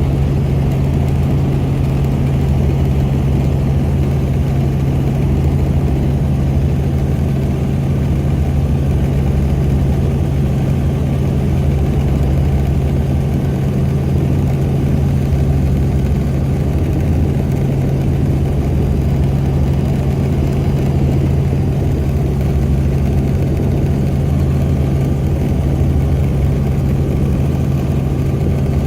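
Helicopter in flight, heard from inside the cabin: a loud, steady engine and rotor drone with a constant low hum that does not change.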